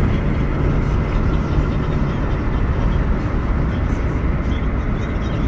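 Steady road and engine noise inside a moving car, a continuous low rumble.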